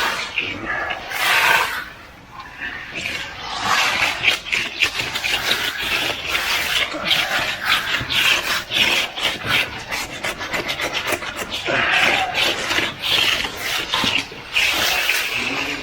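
Hand trowel scraping across fresh concrete in quick repeated strokes while finishing the slab, with a short pause about two seconds in.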